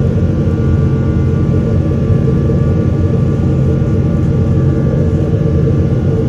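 Steady engine noise inside the cabin of a Boeing 777-200ER with Rolls-Royce Trent 800 engines: a deep, even rumble with a few faint steady whining tones above it.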